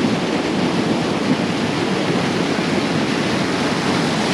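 Small waterfall rushing steadily, the falling water loud and constant.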